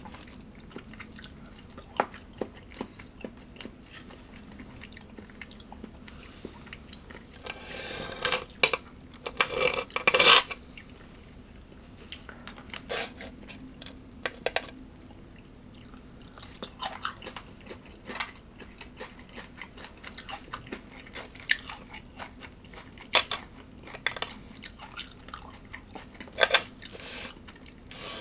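Close-miked chewing and crunching of crunchy food, in irregular bites with scattered sharp clicks. The loudest crunches come about a third of the way in, with another near the end, over a faint steady hum.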